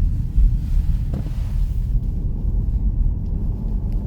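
Car driving on the road: low, steady rumble of engine and tyres, with a short swell of hiss about a second in.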